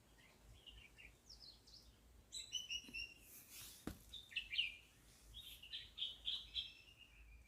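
Several birds chirping and trilling in short, overlapping calls, with a single sharp click about four seconds in.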